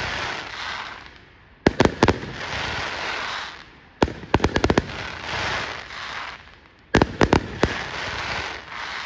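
Aerial fireworks: three volleys of rapid sharp bangs about every two and a half to three seconds, each followed by a couple of seconds of crackling from gold crackle shells bursting overhead.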